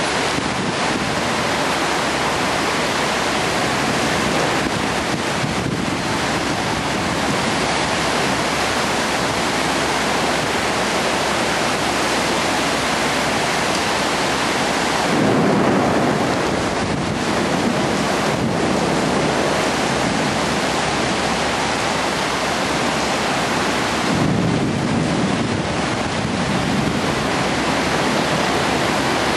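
Torrential rain pouring down in a steady, loud hiss. Twice the sound swells deeper and louder for a second or two, about halfway through and again later on.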